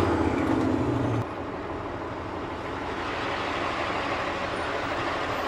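Beet-hauling truck's engine heard from inside the cab as the truck drives off; its steady drone drops away about a second in, leaving a quieter rumble with road noise.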